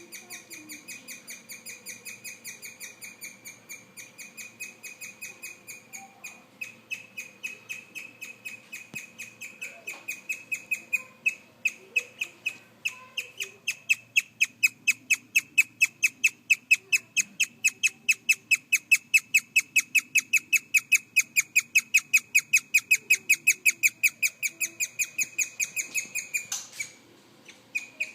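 Young male guinea pig chirping: a long run of rapid, evenly spaced high peeps like a chick's, about four to five a second, growing louder after about ten seconds, with a brief break near the end. This rare call comes from a boar newly paired with an older one, which the owner guesses may be about wanting to be the boss.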